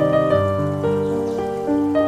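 Slow, gentle piano music: notes and soft chords struck one after another, each ringing and fading before the next.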